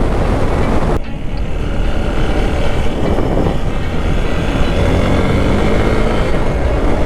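Hero XPulse 200's single-cylinder engine running while riding, heavily covered by wind buffeting on the microphone; the engine pitch rises a little in the second half as it picks up speed.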